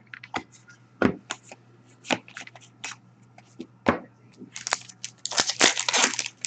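Hockey card packs and cards being handled on a table: a few separate sharp taps and clicks, then from about two-thirds of the way in a dense, crackly crinkling of foil pack wrappers being torn open.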